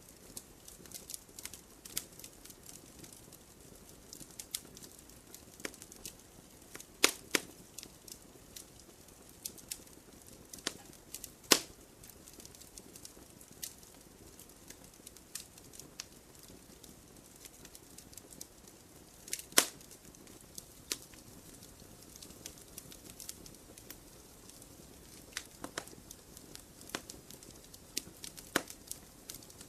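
Wood campfire crackling: a steady scatter of small snaps and pops over a soft hiss, with three sharper, louder pops during the stretch.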